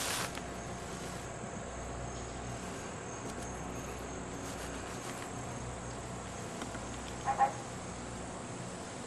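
Insects trilling steadily in a high thin tone over a low background hum. A brief rustling noise comes at the very start, and a short two-part pitched squeak or call stands out about seven seconds in.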